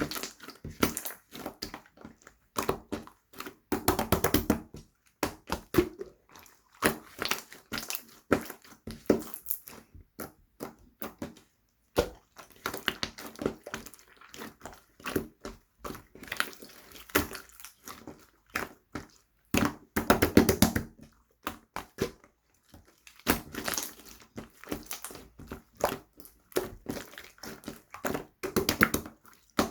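Slime being squeezed and pressed by hand, giving dense runs of small crackling pops and squelches in bursts of a second or two with short pauses between.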